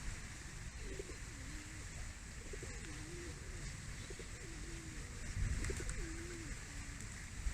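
A dove cooing: about four low, wavering coos, roughly one every second and a half.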